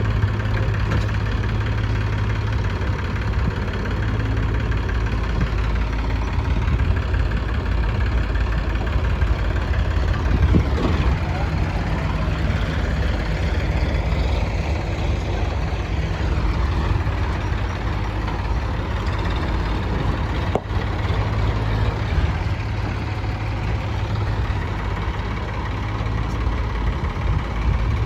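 Diesel engines of a tractor and a JCB backhoe loader running steadily while soil is loaded into the tractor's trolley. The engine note rises and falls a few times between about ten and sixteen seconds in.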